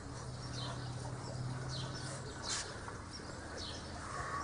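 Backyard birds chirping, short high calls about once a second, with a low steady hum during the first couple of seconds.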